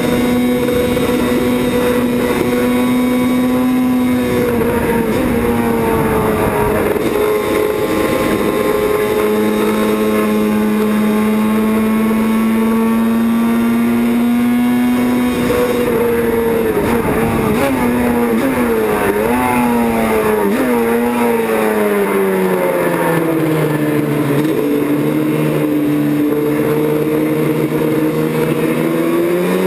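Classic racing motorcycle engine running continuously at speed. Its pitch holds fairly steady, wavers in the middle, drops lower about two-thirds of the way through, then climbs again near the end.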